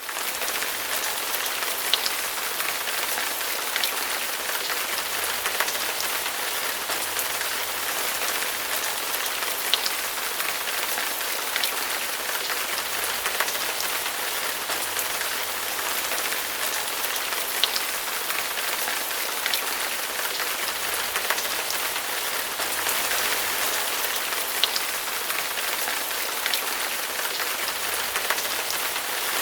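Steady rain falling, an even hiss with occasional louder single drops striking a surface.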